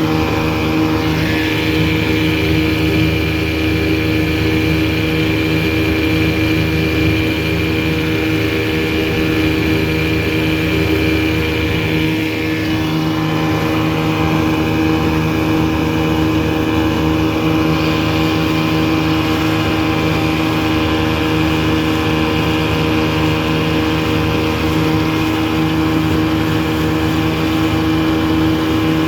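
1984 Evinrude 6 hp two-stroke twin outboard motor running steadily under load, holding one constant engine note while it drives a small aluminum boat at about 13 mph.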